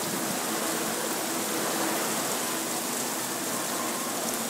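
Heavy rain pouring down onto flooded paving: a steady, dense hiss.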